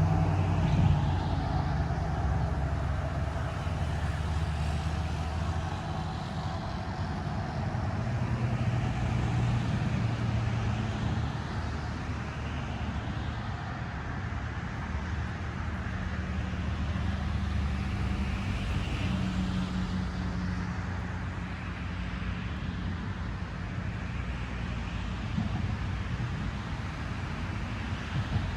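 Road traffic: vehicle engines running, rising and falling slowly as vehicles pass.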